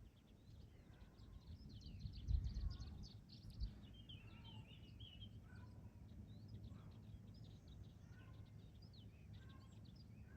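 Several birds chirping, a dense run of short quick calls that overlap throughout, over a low rumble of wind that swells about two seconds in.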